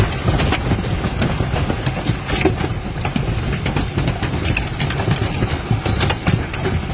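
Storm noise: a dense, irregular patter of sharp rain or hail impacts over a steady low rumble of wind.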